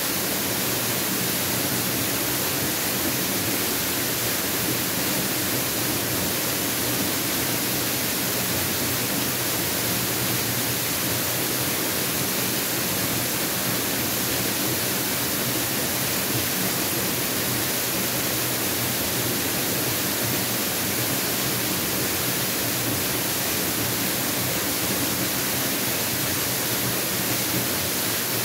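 Mountain waterfall rushing steadily: an even, unbroken hiss of falling water with no changes.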